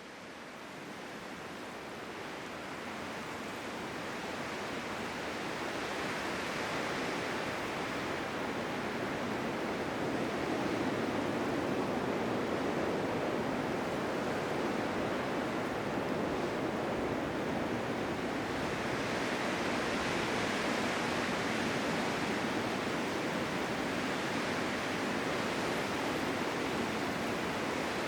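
Blizzard wind ambience: a steady rushing noise that swells and eases slowly. It fades in over the first several seconds.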